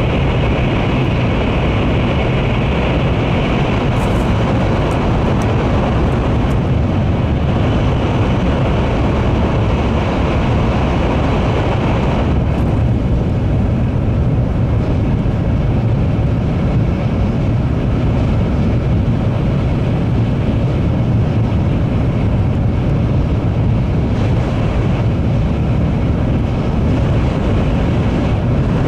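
Series N700 Shinkansen at speed, heard from inside the passenger cabin: a loud, steady running rumble, heaviest in the low end with a hiss above. Its tone shifts about twelve seconds in, as the train comes out of a tunnel onto open track.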